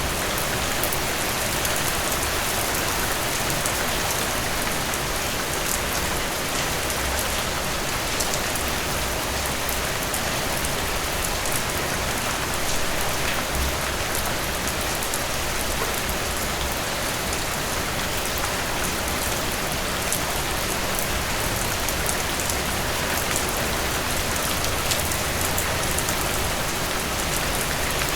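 Heavy rain falling steadily on a surface, a dense even hiss full of fine drop patter, with a faint low rumble underneath.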